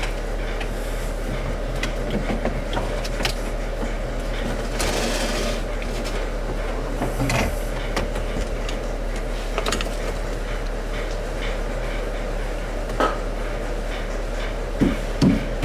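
A steady low hum throughout, under scattered knocks, clicks and rubbing of things being handled, with a brief hissing rush about five seconds in.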